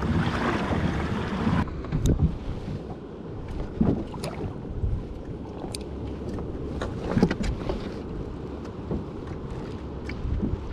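Water sloshing and slapping around a kayak on choppy sea, with scattered sharp knocks and splashes against the hull. Wind buffets the microphone for the first second and a half, then cuts off abruptly.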